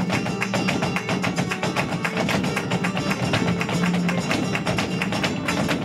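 Live flamenco tangos: guitar playing under a dense, rapid run of sharp percussive strikes.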